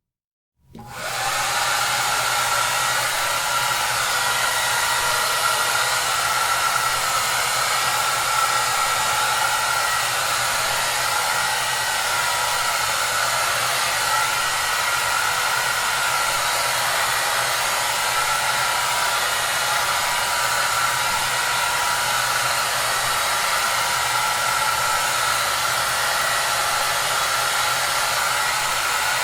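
Hair dryer running steadily, a constant rush of blown air with a steady motor hum and whine. It starts within the first second, after a brief silence.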